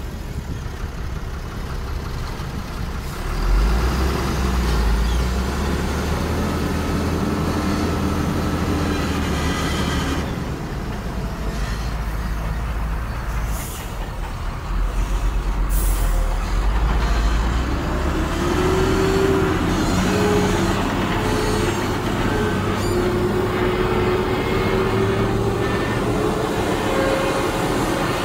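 Heavy diesel earthmoving machinery running under load, its engine note rising and falling, with two short high hisses about halfway through.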